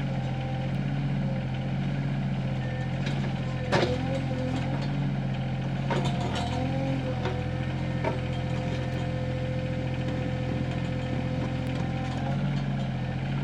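Sany SY26U mini excavator running steadily with a whine over its engine drone while its 12-inch bucket digs a post hole in rocky soil. Sharp knocks and crumbling as the bucket breaks rocks loose, loudest about four seconds in and again around six and eight seconds.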